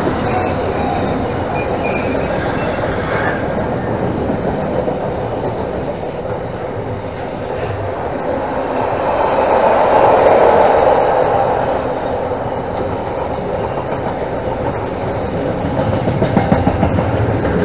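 Container freight train's wagons rolling past on the adjacent track: a steady rumble and clatter of wheels on rail, swelling around ten seconds in, with a quick run of clacks near the end.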